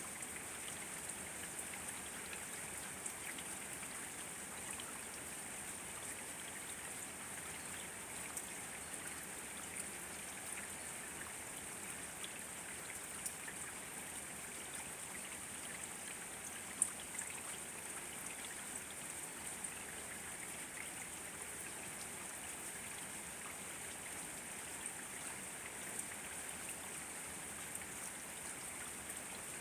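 Steady rain falling, with scattered individual drops ticking on surfaces and one sharper drop about 17 seconds in.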